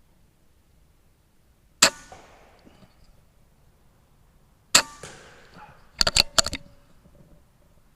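Two shots from a Theoben Rapid 7 pre-charged pneumatic air rifle, about three seconds apart, each a sharp crack with a short ringing tail. About a second after the second shot comes a quick run of four or five sharp clicks and knocks.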